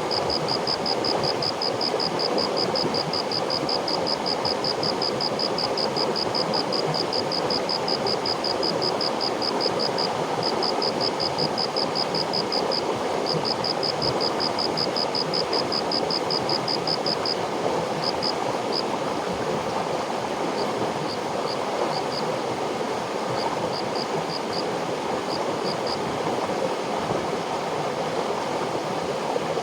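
River water flowing steadily. Over it, a high-pitched chirping in rapid, evenly spaced pulses runs through the first half, then breaks into scattered short bursts and stops a few seconds before the end.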